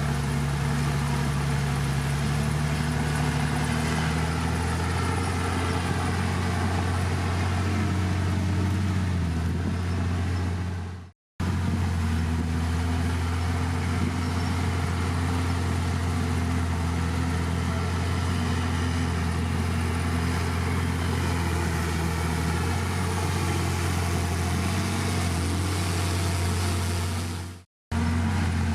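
Heavy diesel engine of a bulldozer running steadily, its pitch drifting slightly up and down as it works. The sound fades out and cuts straight back in twice, once near the middle and once near the end.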